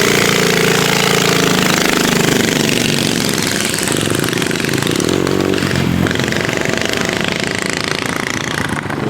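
Dirt bike engine running close by, revving up and down, its pitch falling and rising as the throttle is worked.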